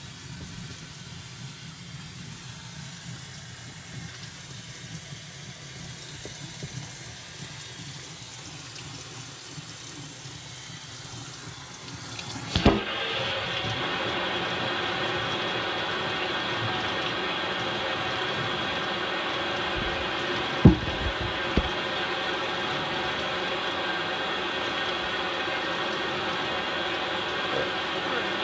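Water running steadily; about twelve seconds in there is a click and the flow becomes much louder and steady, with a faint whine in it, as the top-loading impeller washer goes into its rinse.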